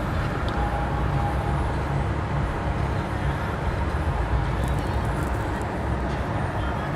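Steady low rumble of a vehicle engine idling, even throughout.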